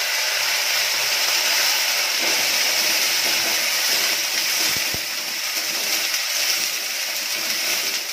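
Onion paste sizzling in hot mustard oil in an aluminium kadhai: a loud, steady frying hiss that eases a little about five seconds in, while a metal slotted spoon stirs it.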